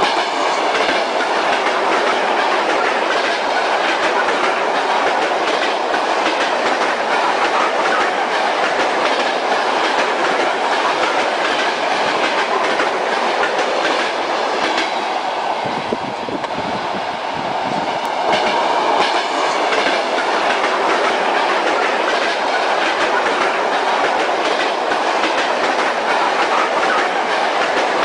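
Moving train: wheels clattering rhythmically over rail joints over a steady rumble of the railway carriage, with a brief dip in the noise about halfway through.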